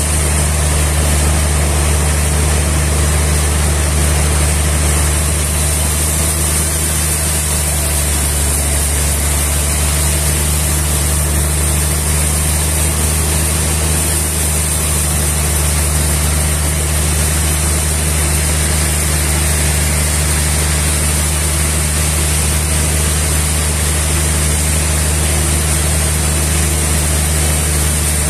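Sawmill machinery running steadily: a constant low engine hum with a hiss above it and no breaks.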